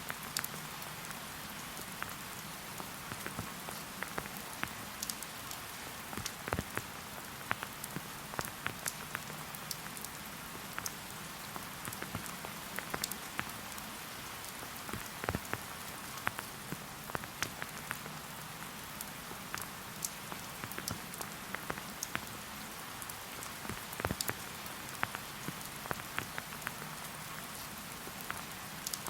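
Steady rain: an even hiss with many separate drops tapping sharply close by.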